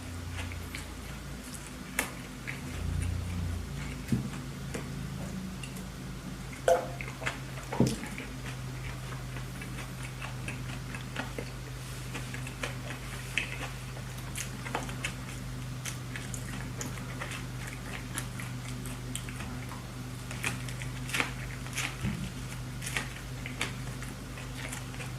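A person chewing and biting into a hamburger, a string of short, irregular mouth clicks with two sharper ones about seven and eight seconds in, over a steady low hum.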